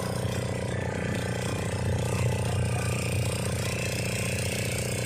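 A boat's engine running steadily, with a rapid, even pulse.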